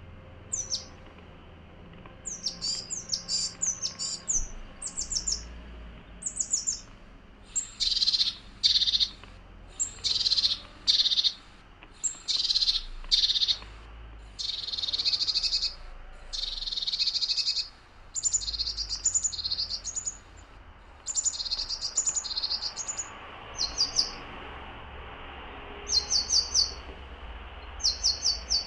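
Small songbirds chirping: repeated bursts of short high notes, with a run of longer, harsher calls in the middle.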